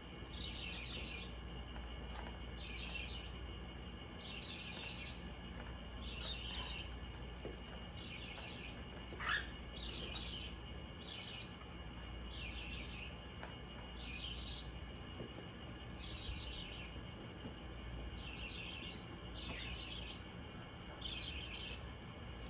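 Hand-reared bird chicks calling in short, repeated bursts, about one every second and a half: the begging calls of chicks being fed formula. A single louder rising chirp comes about nine seconds in.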